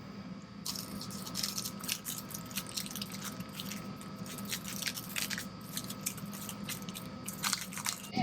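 Faint irregular crackling and clicking over a steady electrical hum.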